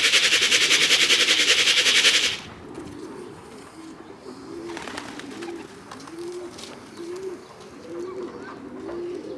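A loud, even rushing noise cuts off about two seconds in. After it, domestic pigeons coo softly over and over.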